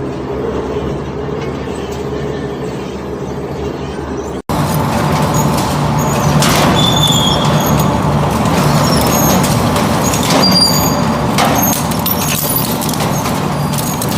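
Industrial metal shredder running with a low steady drone, then, after an abrupt cut about four and a half seconds in, metal being ground and torn apart with high squeals and clanks.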